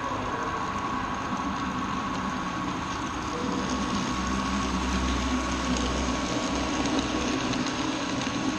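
HO scale model train running along the layout track, a steady mechanical rolling noise with a low hum that swells for a couple of seconds midway.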